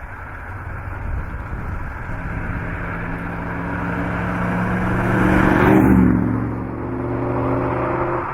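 Maserati Mexico's V8 engine running, growing louder to a peak about six seconds in, then easing off.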